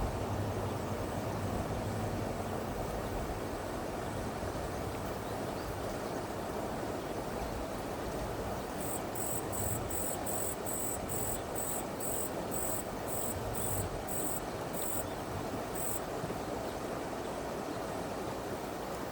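Steady rush of a flowing stream. From about nine seconds in, an insect calls for some seven seconds in a run of about fifteen short, high chirps, two or three a second.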